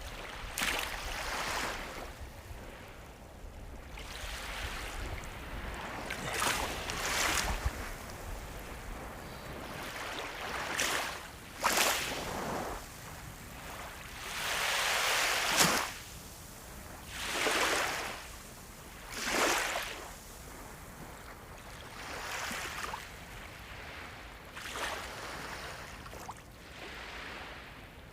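Sea waves breaking and washing in: a steady hiss of surf with about a dozen swells of breaking water, a couple of them starting with a sharper crash.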